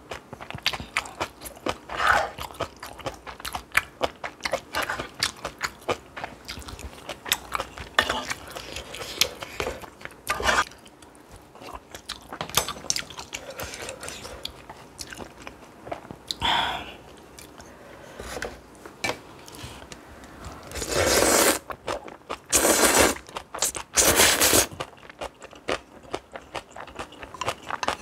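A person eating close to the microphone: crisp crunching and chewing of spicy stir-fried ramen and kimchi, bite after bite. Near the end come three louder, longer sounds of about a second each.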